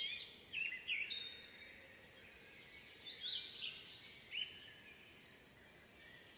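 Several songbirds singing in a spring woodland: short chirps and whistled phrases in bursts, the busiest in the first second and again around the middle, then quieter, more distant song near the end.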